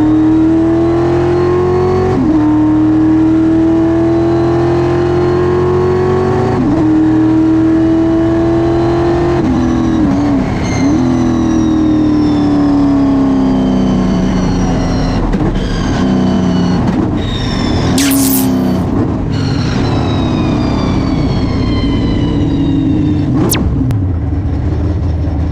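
Stock car race car engine heard from inside the car at full throttle, its pitch climbing through each gear and dropping at upshifts about 2, 7 and 9.5 seconds in. After that it brakes and downshifts, the engine note falling step by step as the car slows. A short harsh burst of noise comes about 18 seconds in.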